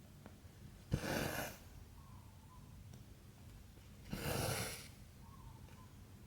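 Cotton embroidery thread drawn through cross-stitch fabric twice, two short rasping swishes about three seconds apart; the first starts with a light tick.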